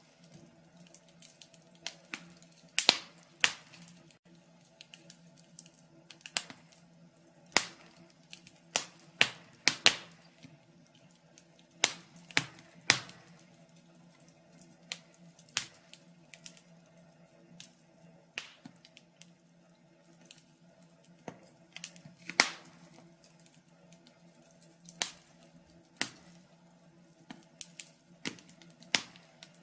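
Wood fire crackling: irregular sharp pops and snaps of burning logs, some much louder than others, over a faint steady hum.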